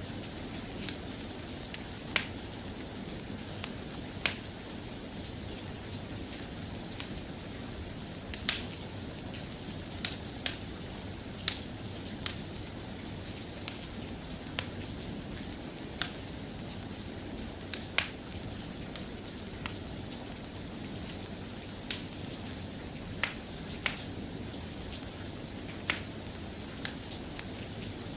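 Steady rain with a soft, even hiss, broken by irregular sharp clicks and pops about every second or two.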